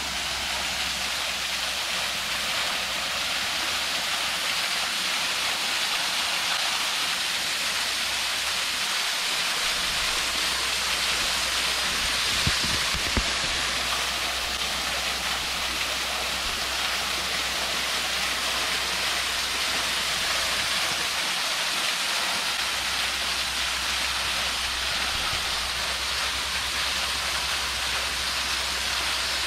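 Small waterfall pouring and splashing steadily, close to a GoPro Hero 8's own microphone, with two light knocks around the middle.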